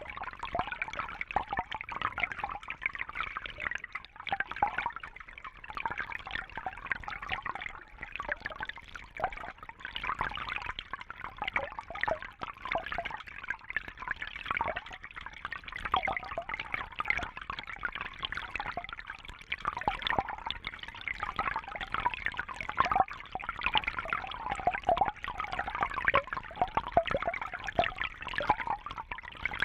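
Water trickling and bubbling steadily, a busy patter of many small splashes with no pauses.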